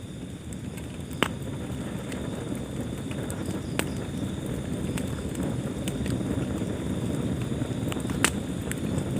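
Wood fire burning in a fireplace: a steady low rumble with scattered crackles and three sharper pops, about a second in, near four seconds and near the end.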